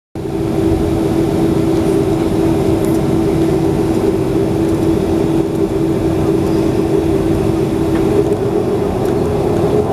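Boeing 737's CFM56 jet engines and airframe heard from inside the cabin: a loud, steady rumble with a constant hum of two close tones.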